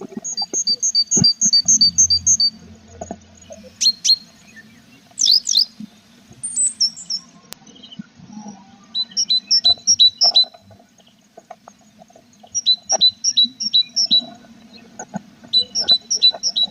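Tits chirping at a nest box: four bouts of quick, evenly repeated two-note chirps, about four a second, with a few sharp sweeping notes between the bouts. A faint low hum runs underneath.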